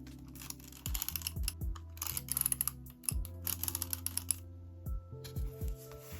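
Several quick runs of crisp, rapid clicking over background music with a steady low beat.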